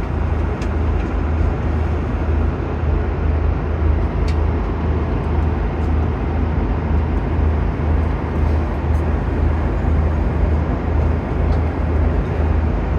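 Steady low rumble of a vehicle heard from inside its cabin, with a slow pulsing in the deep part of the sound and a few faint clicks.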